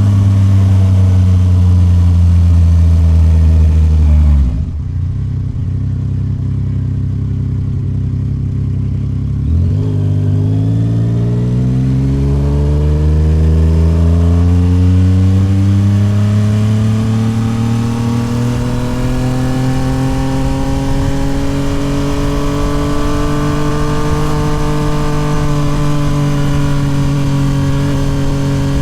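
Yamaha MT-09 SP's three-cylinder engine through an aftermarket Toce full exhaust. It runs steadily, drops off suddenly about four seconds in as the throttle closes, then from about ten seconds climbs slowly in pitch under a long, gentle pull before levelling off near the end.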